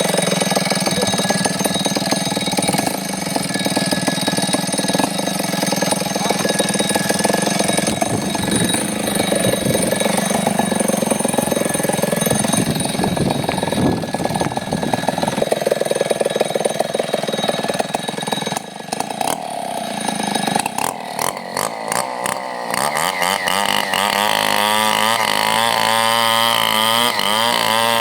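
Chainsaw running loudly and continuously, briefly dropping off near two-thirds of the way through, then its pitch wavering up and down toward the end as the engine speed changes.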